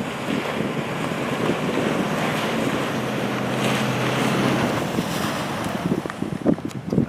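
Wind buffeting the microphone over a Nissan Titan pickup's engine running in the snow, with a steady engine note in the middle. A few sharp knocks near the end.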